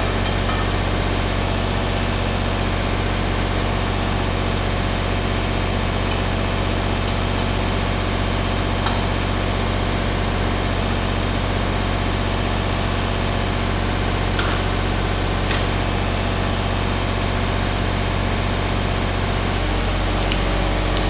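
Wire-feed welder laying a continuous bead: a steady electrical hum with an even hiss and sizzle that runs on without a break.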